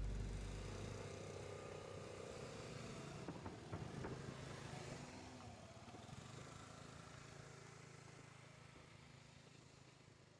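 Faint running noise of a train, fading steadily away, with a few clatters about three to five seconds in.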